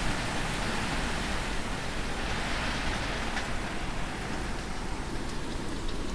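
Hurricane wind and heavy rain: a steady rushing noise that swells a little in the first few seconds and eases slightly toward the end.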